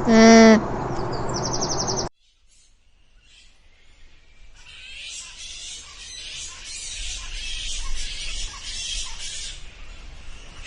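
A loud, harsh animal call right at the start, then a brief pause. From about four seconds in comes a dense chorus of small birds chirping, growing louder.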